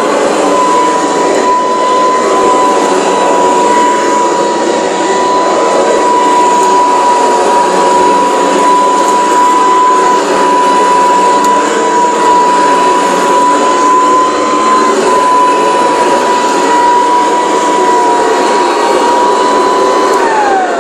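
Hoover Decade 800 vacuum cleaner running with a steady high motor whine, holding an even speed with no surging on its replacement motor. Near the end it is switched off and the whine falls in pitch as the motor winds down.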